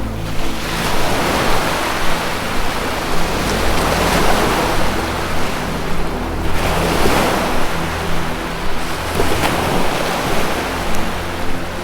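Ocean waves washing in and out, swelling and fading every few seconds, over a low sustained synth drone.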